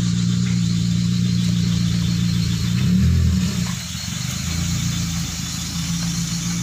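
Car engine idling steadily, revved briefly about three seconds in, then idling again more quietly.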